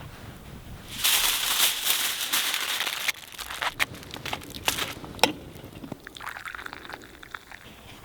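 Aluminium foil crinkling as it is folded and wrapped around a sandwich: a dense rustle for about two seconds, then a run of separate sharper crinkles and clicks that die away.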